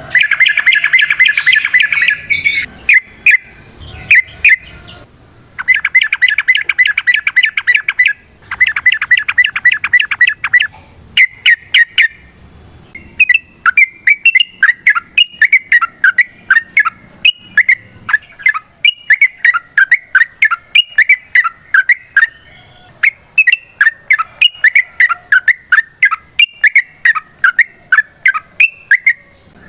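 Yellow-vented bulbul (trucukan) calling. It gives fast chattering rattles in bursts over the first ten seconds or so, then a long run of short, quick chirps.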